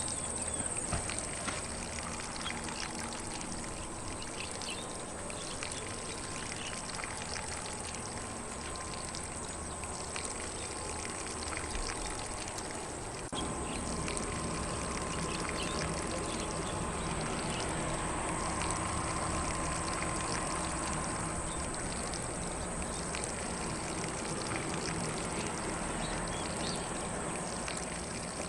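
Lawn sprinkler spraying water steadily across grass, a continuous hiss and patter of falling water that gets slightly louder about halfway through.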